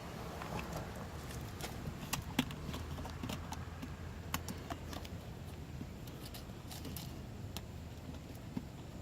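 The 5.7-litre 350 V8 of a 1990 Chevrolet K1500 runs steadily, with irregular sharp ticks over its low hum: the ticking of an exhaust leak.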